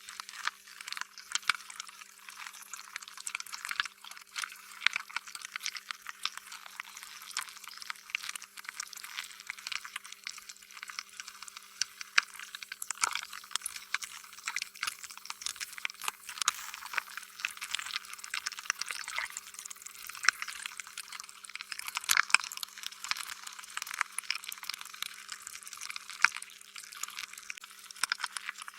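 Slime being squished and stretched: a continuous run of small wet crackles and pops, with a faint steady hum underneath.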